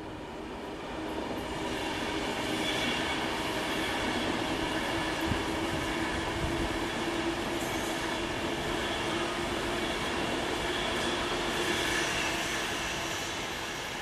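Class 390 Pendolino electric train passing through the station, a steady rush of wheel and rail noise with a constant hum underneath. It builds up over the first couple of seconds, holds, and eases off near the end.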